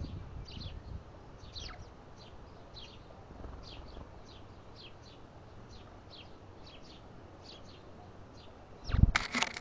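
Small birds giving short, high, downward-slurred chip notes, about two a second. About nine seconds in, a loud, sudden bump and rustle close to the microphone.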